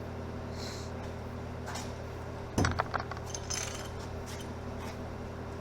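Crutch and PVC pipe parts being handled and fitted together: one sharp knock about halfway through, with a few light clicks and clinks around it, over a steady low hum.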